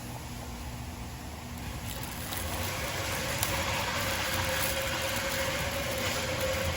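Engine oil flowing in a steady stream, growing louder about two seconds in.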